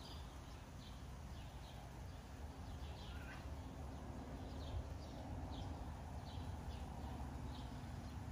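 Small birds chirping outdoors: short, high, falling chirps repeated every half second or so, over a steady low rumble.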